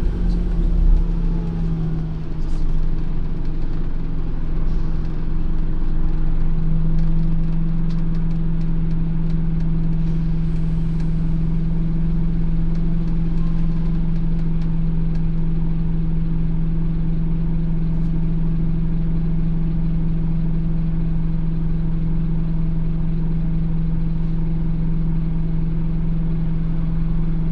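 Scania OmniCity N230UD double-decker bus's five-cylinder diesel engine running, its pitch dropping over the first two seconds and then holding steady.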